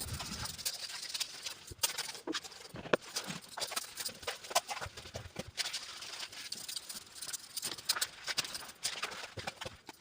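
Sink being cleaned by hand: irregular clicks and knocks over a steady scrubbing hiss.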